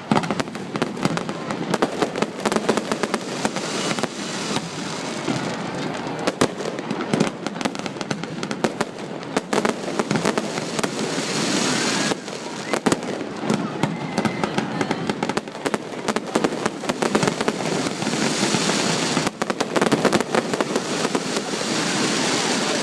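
Fireworks display: a continuous run of bangs and crackling bursts, swelling into denser crackle several times.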